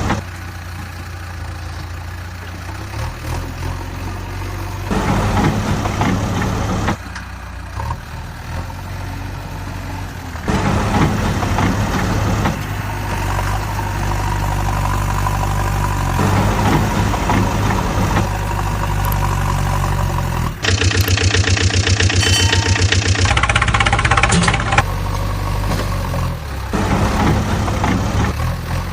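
Vehicle engines running and idling in a string of short segments that cut abruptly from one to the next every few seconds. About two thirds of the way through comes a faster, evenly pulsing engine that is louder than the rest.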